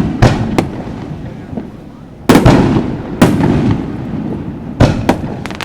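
Aerial firework shells bursting: about six sharp bangs, the loudest about two and a half and three seconds in, each trailing off in a long echoing rumble, with a quick pair of smaller bangs near the end.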